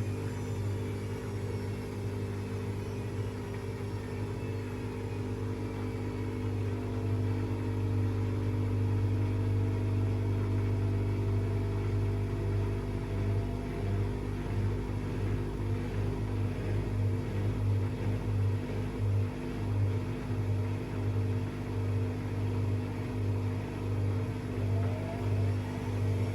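Washing machine running with a steady low motor hum; about halfway in the hum starts to pulse unevenly.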